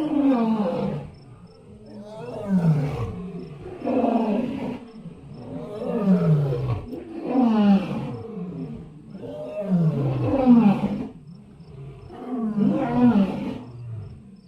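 A big cat roaring over and over: about seven long calls a couple of seconds apart, each falling in pitch.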